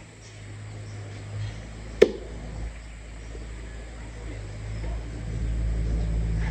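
A motor running steadily, growing louder towards the end, with one sharp click about two seconds in.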